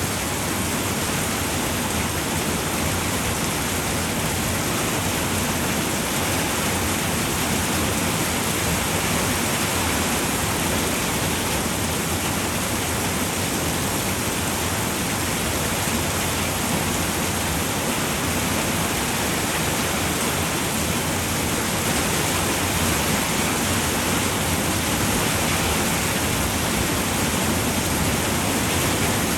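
Steady, dense rain falling on a roof, an even hiss with no distinct drops standing out.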